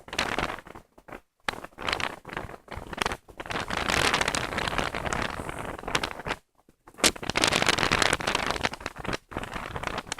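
Strong wind buffeting the microphone: a rough rushing noise that surges and eases in gusts, cutting out briefly a few times.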